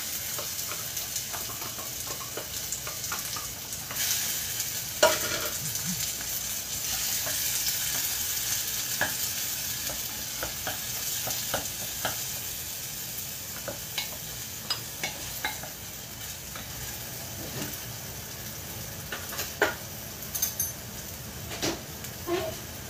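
Chopped tomatoes frying in hot oil in a clay pot, sizzling steadily while a wooden spatula stirs and scrapes through them, with scattered knocks of the spatula against the pot, several sharper ones near the end.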